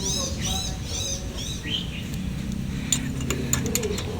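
A small bird chirps repeatedly, about two to three short arched chirps a second, for the first two seconds. From about three seconds in come a run of light, sharp metallic clicks and taps from hand tools working the valve adjusters on a motorcycle engine's cylinder head.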